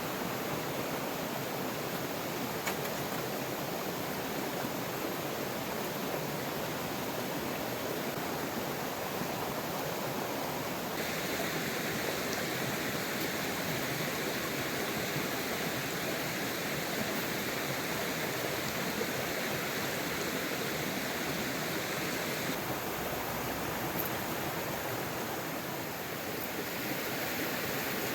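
Steady rush of flowing water, with no voice. A higher hiss joins for about ten seconds in the middle, then drops away.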